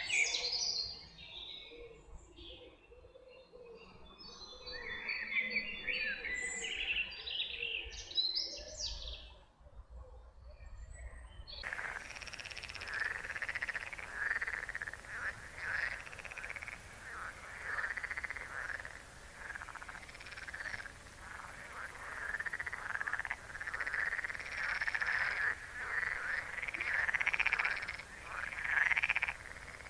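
Songbirds singing with quick chirps and trills, then, about twelve seconds in, an abrupt change to a dense chorus of frogs croaking continuously at a pond edge.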